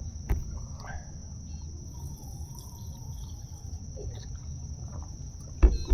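Crickets calling in a steady, unbroken high-pitched trill over a low rumble. A sharp click comes just after the start and a louder knock near the end.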